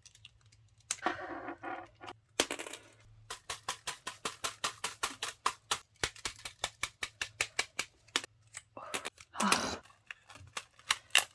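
Bluetooth keyboard being worked by hand: a long, even run of sharp plastic clicks, about four a second, with a few scraping, rustling bursts before and after.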